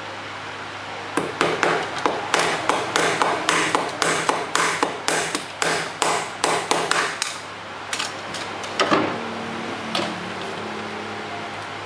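Quick, light hammer taps on bamboo, about three a second for some six seconds, then a few scattered knocks: bamboo frame pieces of a bird cage being knocked together at their mortise-and-tenon joints. A steady low hum runs underneath.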